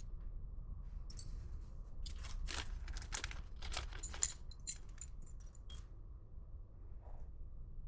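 A flurry of small rattles and clicks, like hard objects being handled, over a low steady hum.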